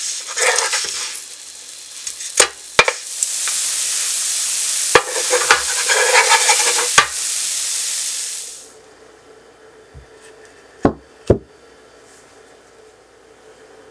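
Sesame-coated sweet potato glutinous rice pancakes sizzling in oil in a nonstick frying pan, with a metal spatula clicking against the pan several times as they are turned. The sizzle cuts off about nine seconds in, and two short knocks follow near the end.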